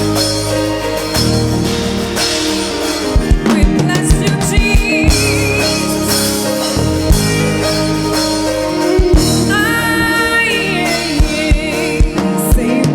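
Live gospel band playing with sustained keyboard and bass chords; kick-drum beats come in about three seconds in, and voices sing with a wavering vibrato later on.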